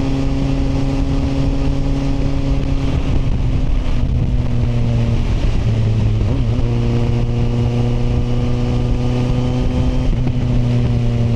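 Kawasaki motorcycle engine running on the road, its note stepping down about three seconds in and again about six seconds in, then holding steady. A constant rush of wind and road noise runs under it.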